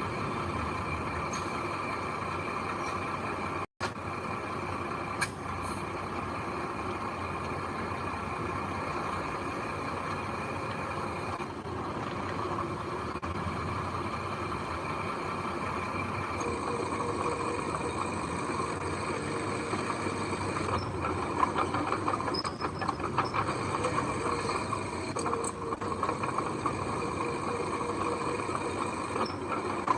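Heavy earthmoving machinery running steadily: diesel engine drone from the bulldozer and dump truck at work. The sound breaks off for an instant about four seconds in, changes about sixteen seconds in, and a rattling clatter then joins the engine noise.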